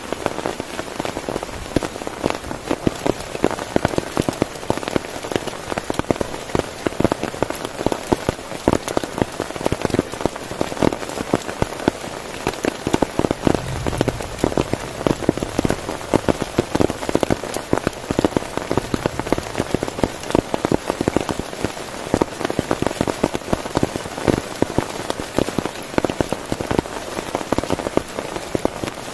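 Heavy rain falling on a tent, a dense, steady mass of individual drop hits with no let-up.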